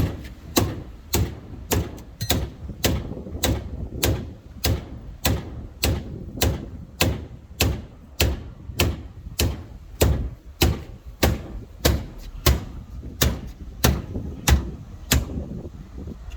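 Hammer blows in a steady rhythm, nearly two a second, ending about fifteen seconds in.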